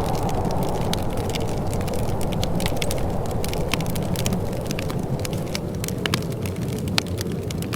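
Wood fire in a fireplace crackling, with many small irregular pops and snaps and a sharper pop about seven seconds in, over a steady low rumble.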